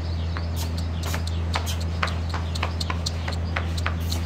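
Small birds chirping in quick, irregular short notes over a steady low hum.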